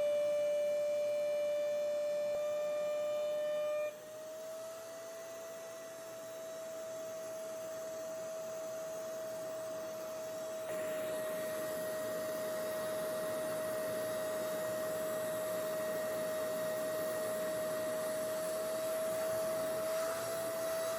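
Hoover Clean Slate spot carpet cleaner running with a steady high-pitched motor whine. About four seconds in the whine steps slightly higher and quieter, and about eleven seconds in a louder rushing noise joins it.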